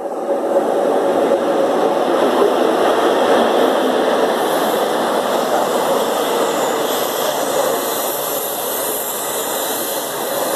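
Class 43 HST power car's diesel engine running loudly close by, a steady dense engine noise, with a high hiss coming in over the second half.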